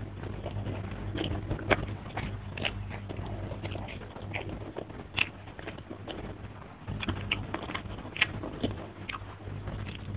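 Close-miked chewing and lip-smacking of a hand-eaten mouthful of rice and fish, with sharp wet clicks about once a second over a steady low hum.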